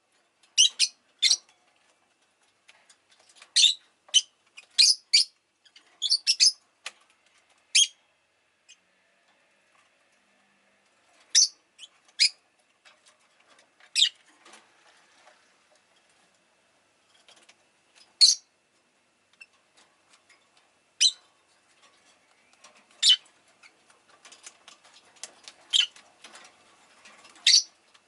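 Rosy-faced lovebird chirping: short, sharp, high-pitched calls at irregular intervals, often in pairs or quick clusters, with fainter chatter between them.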